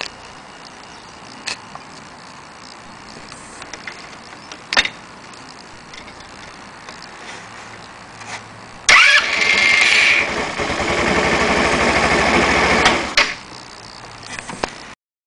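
Moped scooter engine started about nine seconds in, with a brief whine at the start, running with a rapid pulsing for about four seconds and then cutting off. A few sharp clicks come before it.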